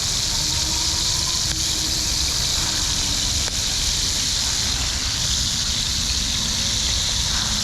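Frog legs frying in butter in a pan, a steady sizzle over a low rumble.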